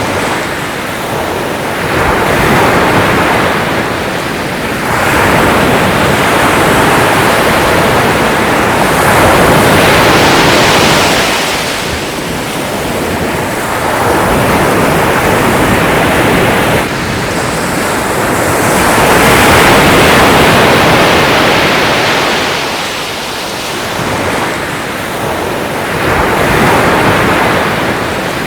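Sea waves washing onto the shore, a steady rush of surf that swells and falls back every several seconds.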